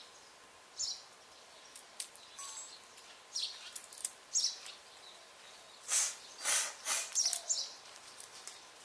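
Small birds chirping in short, scattered high calls, busiest about six to seven and a half seconds in, over a faint steady background hiss.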